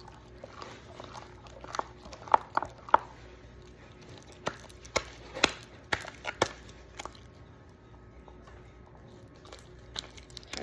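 Sticky clear-glue slime being worked by hand, giving scattered wet clicks and pops; the loudest come in a cluster about two to three seconds in and again around five to six seconds.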